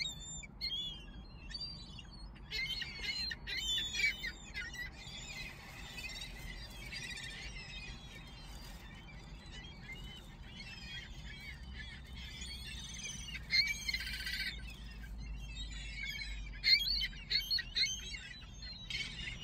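A flock of seagulls calling: many short, high, squeaky cries overlapping, with busier, louder bursts about two-thirds of the way through and again near the end.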